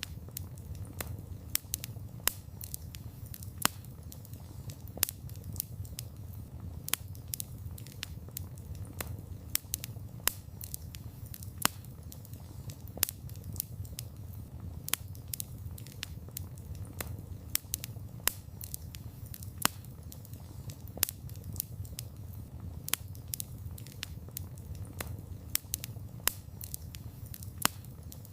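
Wood fire burning, with frequent sharp crackles and pops from the burning wood over a steady low rumble of the flames.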